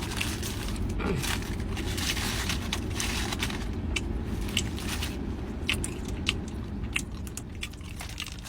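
A person chewing a mouthful of cheeseburger topped with tortilla chips, with many small crisp crunches and clicks over a steady low background rumble.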